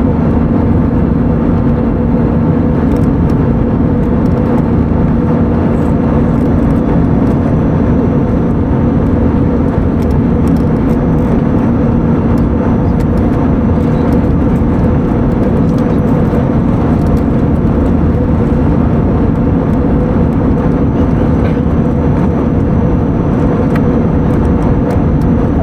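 Steady cabin noise inside an Airbus A320neo in flight: a constant rush of engines and airflow with a low, even hum, unchanging throughout.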